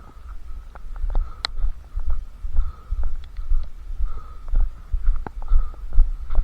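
A runner's footfalls carried up to a head-mounted camera, heard as dull low thuds about two to three a second in step with the stride, with light clicks and rattles over them.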